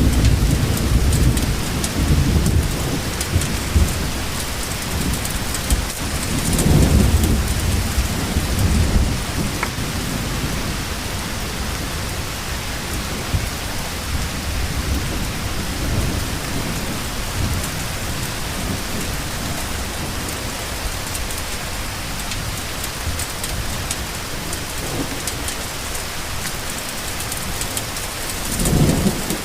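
Steady rain falling, with low rolls of thunder at the start, again about seven seconds in, and briefly near the end.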